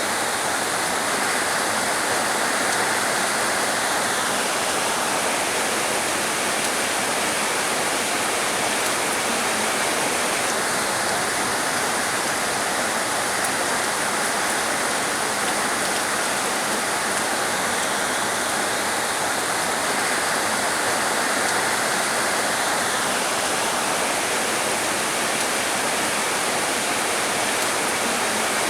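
Heavy rain falling in a steady, dense hiss, with a higher band of patter that swells and fades every several seconds.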